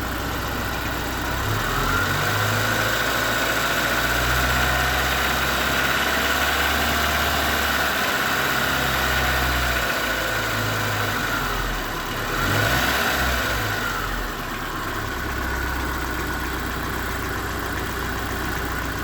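Car engine idling, then revved up and held for several seconds, eased off and revved once more briefly before settling back to idle. The owner reports a knock in the engine that appeared after it overheated.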